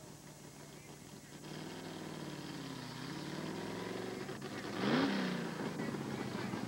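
Drag car's engine idling and being revved, its pitch rising and falling a few times, with one sharp blip of the throttle about five seconds in that is the loudest moment.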